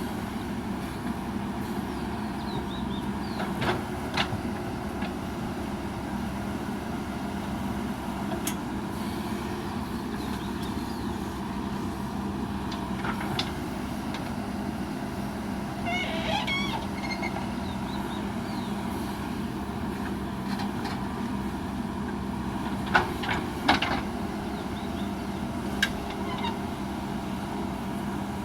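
Heavy diesel earthmoving machinery running steadily with a constant hum, with scattered sharp knocks and clanks, the loudest close together about three-quarters of the way through, and a brief squeaky chirping a little past halfway.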